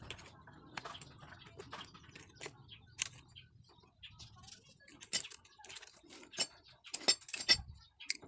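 Irregular light clicks and taps of small metal motorcycle engine parts being handled and fitted during reassembly, growing denser and louder in the second half.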